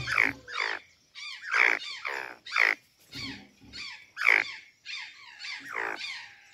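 Azure jays calling: a quick run of loud squawks, each sliding down in pitch.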